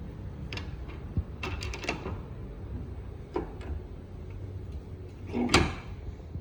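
Small metal injector parts and tools handled on a workbench: scattered clicks and knocks, a quick cluster about one and a half seconds in and the loudest knock about five and a half seconds in, over a steady low hum.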